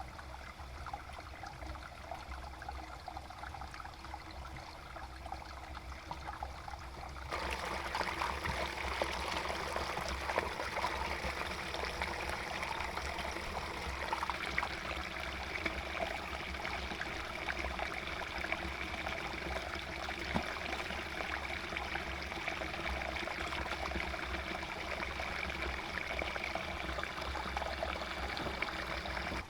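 Water running steadily, becoming louder and brighter about seven seconds in.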